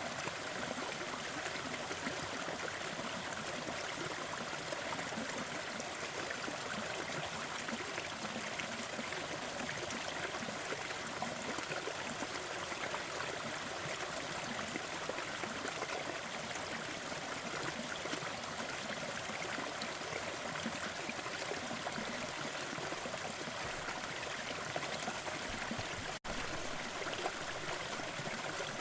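Waterfall: the steady rush and splash of falling water, which cuts out for an instant near the end.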